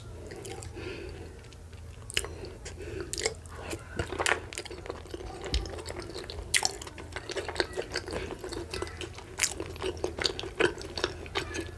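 Close-miked chewing of soft boiled cocoyam and fish with pepper dip, full of sharp wet mouth clicks, with fingers working the soft food in the bowl. A low steady hum runs underneath.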